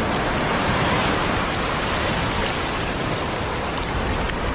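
Surf washing up on the beach in a steady rush of water noise.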